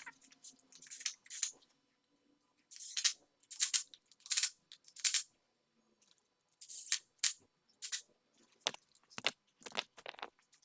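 Ratchet wrench being worked in short, irregular strokes, each a brief rasp of clicks, as nuts are run down to bolt an exhaust manifold onto its studs.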